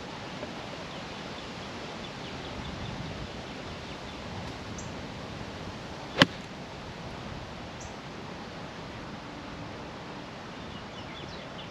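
Steady wind noise on the microphone, with one sharp click about six seconds in: a golf ball struck by a 58-degree wedge.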